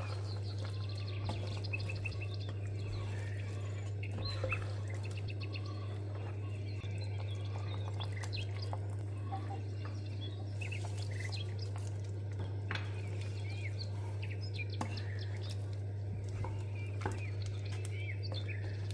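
Small birds chirping repeatedly over a steady low hum, with a few light clicks.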